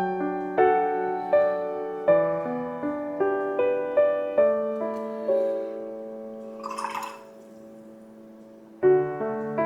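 Soft piano background music playing a slow, gentle melody of single decaying notes. There is a brief hiss about seven seconds in. The music then fades to a quiet lull and resumes suddenly near the end.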